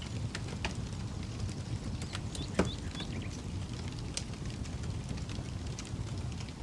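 Campfire crackling, with scattered sharp pops and one louder pop a little before the middle, over a steady low rumble. Faint bird chirps come in now and then.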